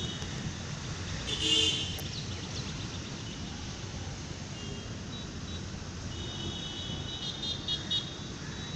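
Outdoor ambience of steady road traffic with short vehicle horn toots, the loudest about a second and a half in and another few near the end.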